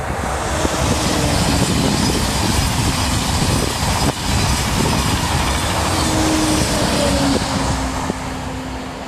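TGV high-speed train passing at speed: a rushing noise of wheels and air that builds at the start and eases off near the end. A faint steady hum underneath drops slightly in pitch as the train goes by.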